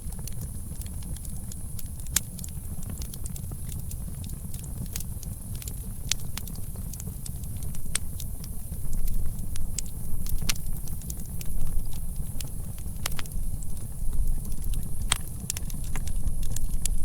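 Campfire crackling: irregular sharp pops and snaps over a steady low rumble, growing busier and louder about halfway through.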